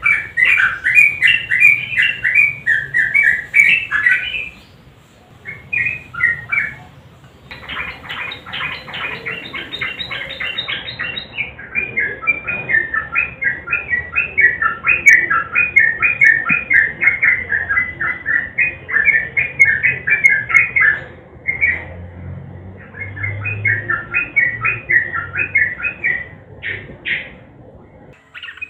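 Sooty-headed bulbul (trucukan) singing loud, rapid, chattering phrases of quick repeated notes, with a short lull about five seconds in, then long fast runs of notes in the rattling 'ropel' style.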